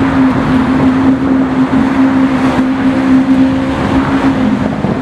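Lamborghini Aventador SV's V12 engine running at a steady pitch as the car cruises past at low speed, with street traffic noise underneath.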